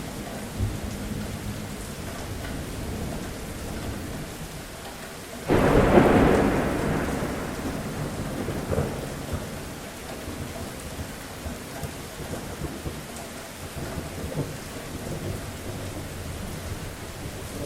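Steady rain falling, with a sudden clap of thunder about five and a half seconds in that rumbles and fades away over the next few seconds.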